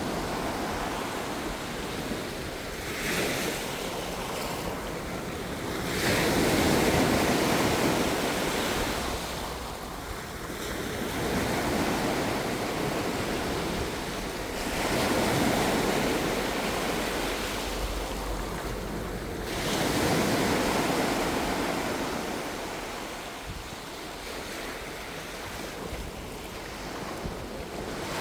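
Ocean waves washing in one after another, the surf swelling and fading every few seconds.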